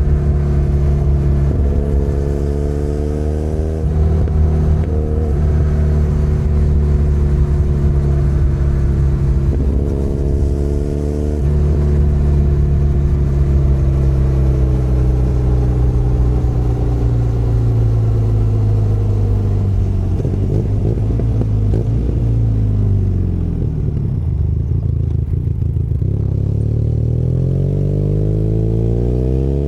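Benelli Leoncino 500 Trail's parallel-twin engine pulling along the road. Its pitch shifts a few times early on as the throttle and gears change, then falls away steadily as the bike slows in the second half. Near the end it revs up again in a rising climb as the bike accelerates.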